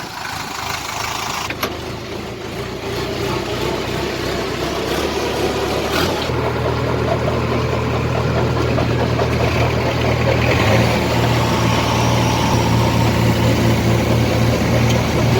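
Tractor diesel engine running steadily, growing louder about six seconds in and again a little before eleven seconds.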